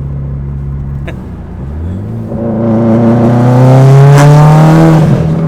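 A 2015 Subaru STI's turbocharged flat-four, nearly straight-piped through a catless downpipe and a Tomei exhaust, accelerating hard. The exhaust note climbs steadily in pitch and grows louder from about two seconds in, then drops briefly near the end.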